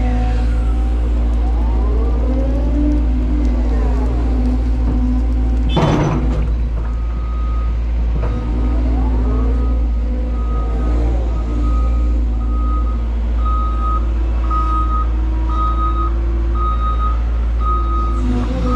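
CAT 320 GC excavator's diesel engine and hydraulics running under work, with hydraulic whines gliding up and down in pitch as the machine moves, and one heavy clunk about six seconds in. From about seven seconds a backup alarm beeps about once a second, growing louder toward the end.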